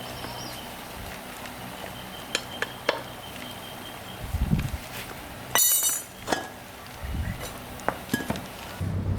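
A few scattered sharp clinks and knocks of hard objects, the loudest a little past halfway, with two dull thuds between them.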